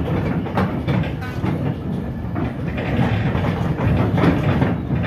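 Inside the passenger saloon of an RA2 rail bus under way: a steady running rumble with the wheels clattering over the track.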